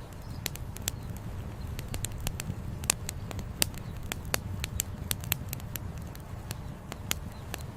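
Wood campfire crackling, with frequent irregular sharp pops of burning firewood over a steady low rumble.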